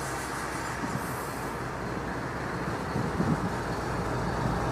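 A train rolling past on the rails, giving a steady rumble of wheels.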